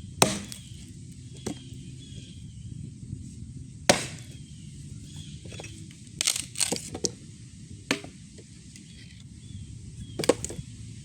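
Sharp cracks of wood being broken, split or chopped for firewood. The loud single strikes come a few seconds apart, with a quick run of them in the middle and a pair near the end.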